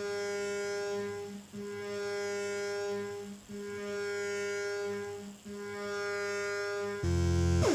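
Brunswick synthesizer's pulse oscillator playing through its filter: a sustained buzzy note, rich in overtones, that dips briefly about every second and three quarters. Near the end a louder, deeper tone comes in with a quick downward sweep in pitch.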